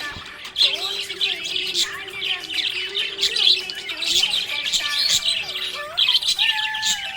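Budgerigars chirping and warbling in a rapid, continuous stream of short chirps and gliding notes, with occasional harsher squawks.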